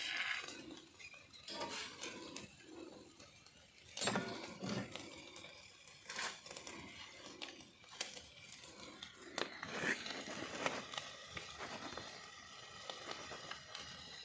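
Cooking utensils and dishes clinking and knocking: scattered sharp clicks, with two duller thumps about four seconds in.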